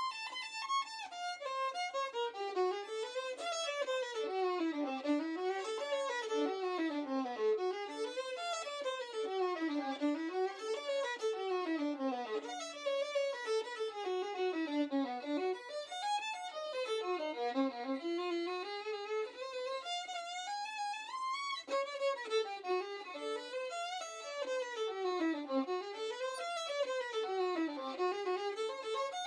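Background music: a solo violin playing fast runs that sweep up and down the scale over and over.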